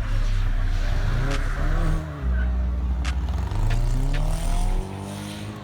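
Car engine revving hard, its pitch climbing and falling again several times, with brief lifts off the throttle about two seconds in and near the end.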